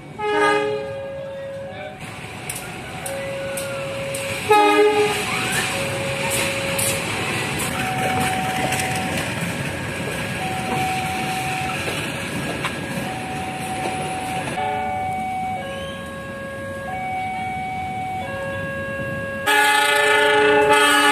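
Diesel locomotive horn blasts at the start and again about four seconds in, then a train running past with a steady rumble while a level-crossing alarm sounds a slow two-tone alternation, about one tone a second. A long, loud horn comes in near the end.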